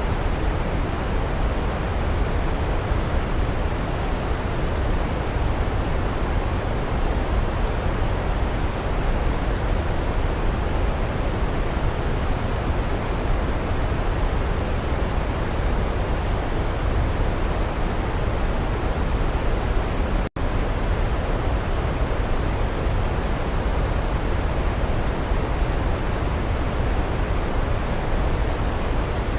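Steady rushing waterfall noise, even and unbroken, heaviest in the low end. It cuts out for a split second about twenty seconds in.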